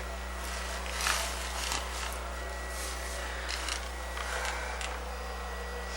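Steady low electrical hum with faint hiss, broken by a few soft rustles and light knocks.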